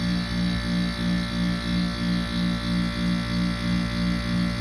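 Window air conditioner running: a steady electrical hum with a pulsing beat about three times a second.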